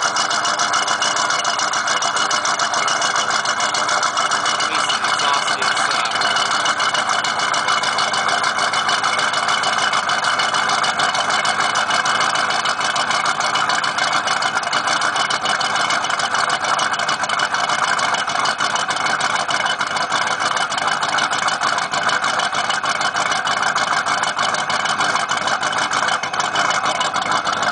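1994 Ford Mustang GT's 5.0-litre V8 idling steadily. It is running weird, which the owner takes for a misfire.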